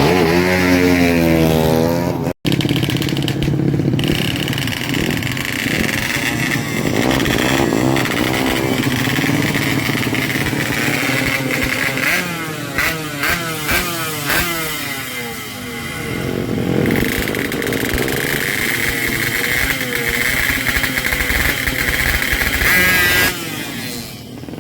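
Honda Karisma's single-cylinder four-stroke engine, tuned for racing, revving up and falling back several times, its pitch sweeping up and down.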